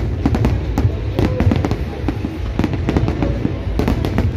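A dense barrage of aerial fireworks shells bursting, rapid overlapping bangs and crackles, with music playing underneath.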